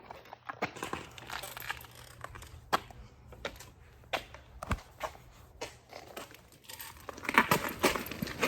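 Irregular small clicks, knocks and rustling of hands handling parts, growing louder and busier near the end.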